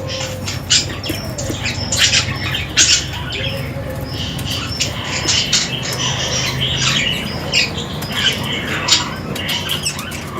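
Several budgerigars chattering and squawking, with many short, rapid calls overlapping continuously.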